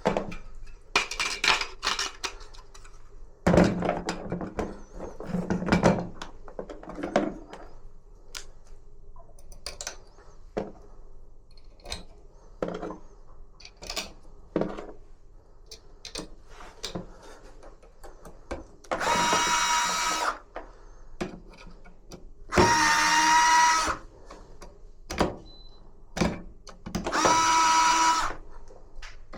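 Electric drill-driver whining in short runs of about a second and a half, three times in the second half. Before them comes a string of clicks and knocks from parts and tools being handled.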